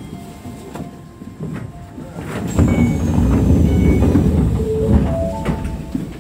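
Keisei electric train rumbling on the rails, growing loud about two and a half seconds in with brief wheel squeals and a high motor whine falling in pitch, then easing near the end.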